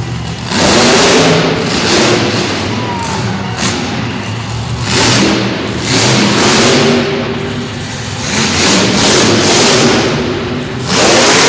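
Monster truck engines revving hard in repeated loud surges, rising and falling every second or two.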